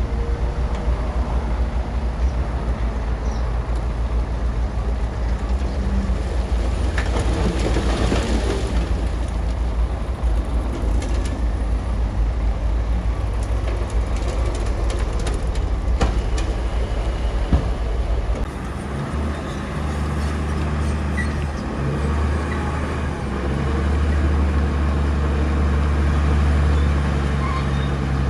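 Bulldozer's diesel engine running steadily under work, with a few sharp metal clanks. About eighteen seconds in, the engine note changes to a steadier, deeper hum that grows a little louder.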